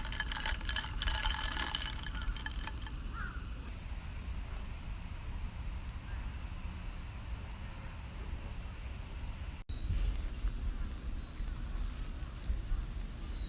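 Outdoor ambience: a steady high-pitched insect chorus, with a crow cawing several times in the first few seconds.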